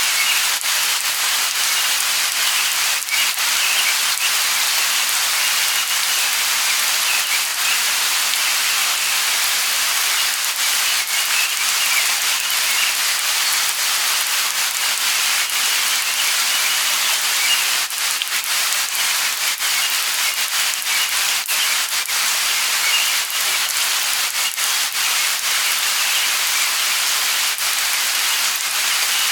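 Light rain falling steadily, a continuous hiss dotted with the ticks of individual drops.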